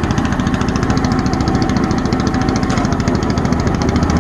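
Caterpillar D9G's small gasoline pony motor running fast and steady, with a rapid even firing beat.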